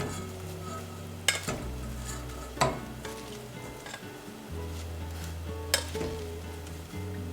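A few sharp clinks of kitchen utensils against cookware, three of them standing out, over a faint hiss from the stove. Background music with held low notes plays throughout.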